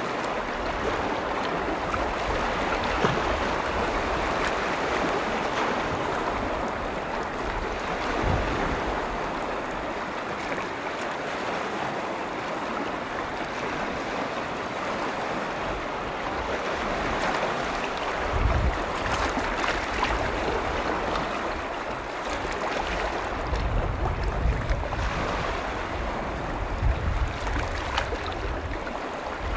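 Small lake waves washing steadily against the shore. Wind buffets the microphone with low rumbles now and then, most often in the second half.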